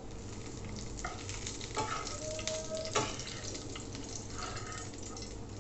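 Pointed gourd (potol) pieces sizzling in oil in a frying pan while a metal spatula scrapes and pushes them across the pan, with a few sharper scrapes about a second in, near two seconds and near three seconds. The pieces are fried through on both sides.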